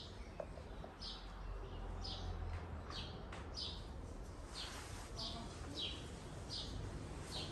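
A small bird chirping over and over, short high chirps each sliding slightly down in pitch, about one every three-quarters of a second.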